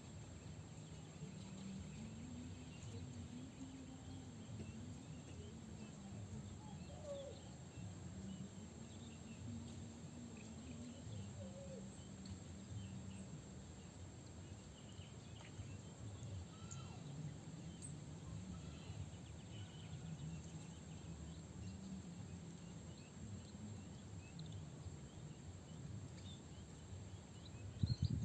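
Faint swamp ambience: scattered small chirps of birds over a low, wavering hum.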